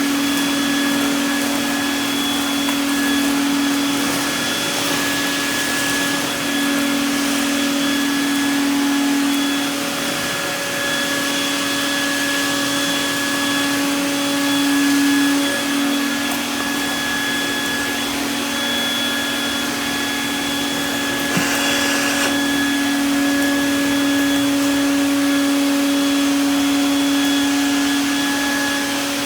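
Craftsman double-insulated shop vacuum running steadily, its motor giving a continuous hum and whine over the rush of air. A short click with a brief burst of hiss about two-thirds of the way through.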